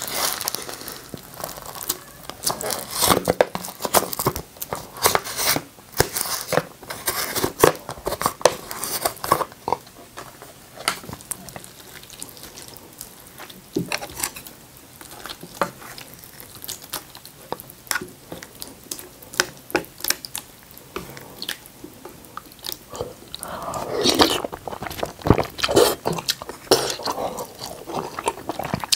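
Close-miked eating of beef seaweed-soup ramen: irregular wet chewing and sharp mouth clicks, with a louder, fuller stretch of eating noise about three-quarters of the way through.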